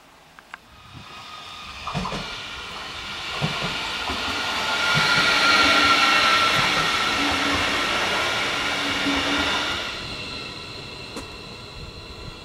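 Electric multiple-unit regional train running past, with wheel knocks over the rail joints and points and a steady electric whine under the hiss of the wheels. It builds up over the first few seconds and fades after about ten seconds.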